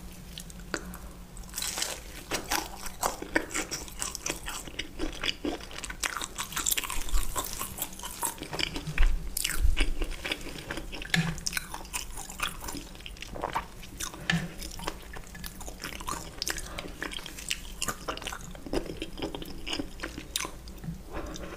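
Close-miked crunching and chewing of fried battered shrimp, many short sharp crunches in quick, irregular succession.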